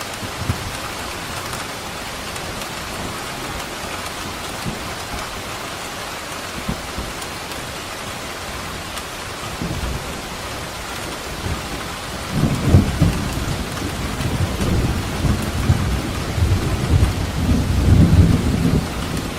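Steady rain falling, with a long low rumble of thunder building about two-thirds of the way through and rolling on to near the end.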